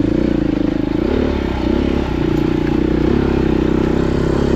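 Off-road motorcycle engine running under the rider, its note rising and falling as the throttle is worked over rough terrain.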